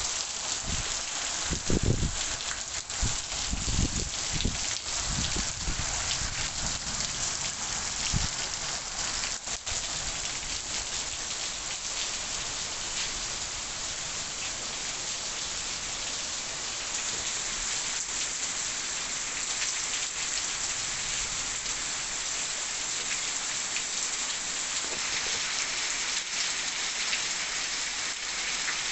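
Heavy rain pouring steadily, with low gusty rumbles during the first eight seconds or so.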